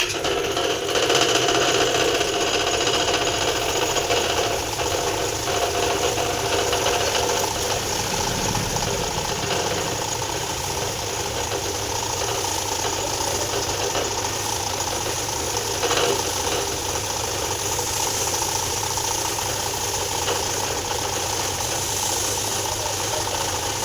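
High-pressure bike-wash pump switched on and running steadily, with its new pressure hose fitted. It starts abruptly and keeps an even mechanical running sound, with a single brief knock about two-thirds of the way through.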